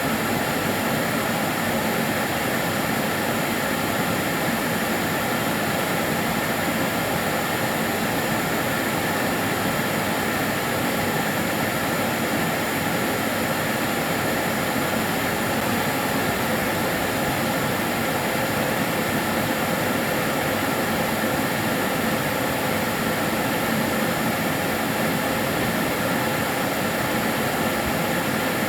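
Karcher DS 6 Premium water-filter vacuum cleaner running steadily: an even rushing motor-and-airflow noise with a faint high whine.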